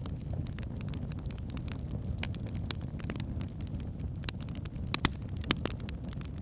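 Log fire burning in a fireplace: a steady low rumble of the flames with scattered sharp crackles and pops, two louder pops about five seconds in.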